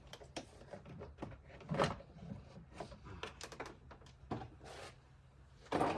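Scattered clicks and light knocks of hand tools and plastic engine-bay parts being handled during intake disassembly, with a louder clatter near the end over a faint steady low hum.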